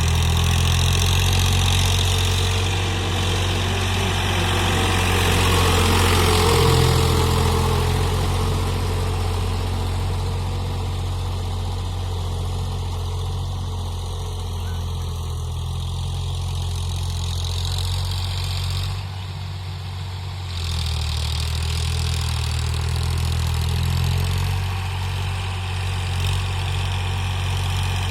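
Eicher 551 tractor's diesel engine running steadily, with a brief drop in level about two-thirds of the way through.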